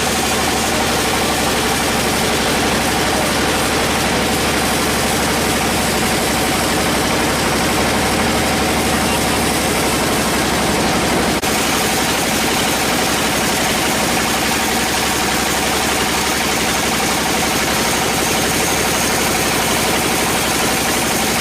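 Sawmill machinery running steadily: a loud engine-like drone with a fast, even pulse and a steady tone, broken by a brief dip about eleven seconds in.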